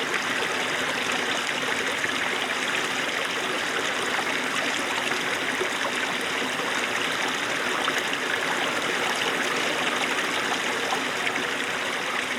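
Small snowmelt stream running and babbling over stones, a steady rush of water with fine trickling and splashing detail.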